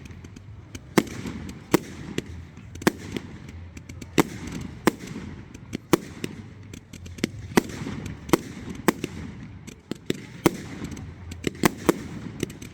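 Fireworks display: a stream of sharp bangs and crackles at irregular intervals, several a second at times, over a steady low rumble.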